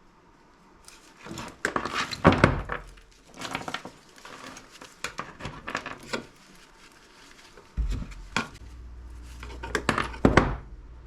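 Connector ends being cut off old copper wires, with irregular sharp clicks and metal clatter as the cutters close and the wire is handled. A low steady hum comes in about eight seconds in.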